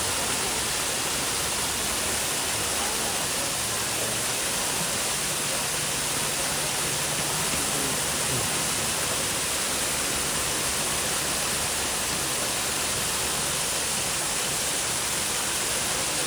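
Steady rushing of falling water, like a waterfall, unchanging throughout.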